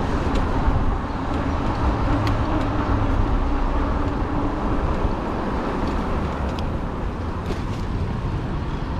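Steady road and wind noise from riding a fat-tire e-bike: the tires rolling on pavement and air rushing past, with a faint steady hum during the first few seconds.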